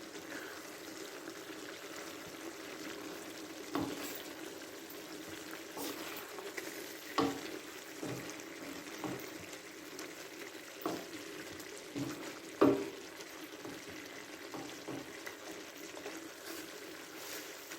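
Chicken frying and sizzling steadily in a pan, with a few sharp knocks of a utensil against the pan as it is stirred, the loudest about twelve seconds in.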